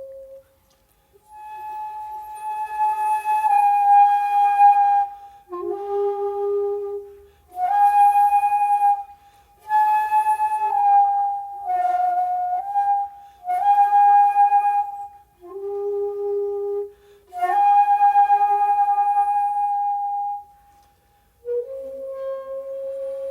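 Solo shakuhachi (end-blown bamboo flute) playing a slow honkyoku piece: long, breathy held notes in phrases of a few seconds each, separated by short silent pauses for breath, moving between a higher and a lower note.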